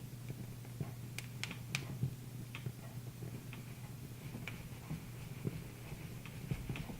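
Wood fire crackling in a fireplace: irregular sharp pops and snaps, with a quick cluster of louder pops a little over a second in, over a low steady hum.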